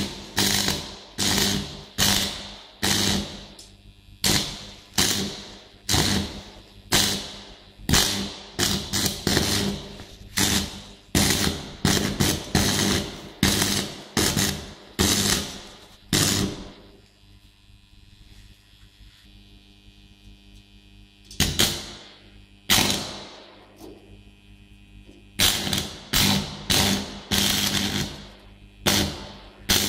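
Homemade stick welder built from three microwave-oven transformers (about 30 V AC) striking short, crackling arcs again and again, one or two a second, with a pause of a few seconds midway; the transformers hum steadily underneath.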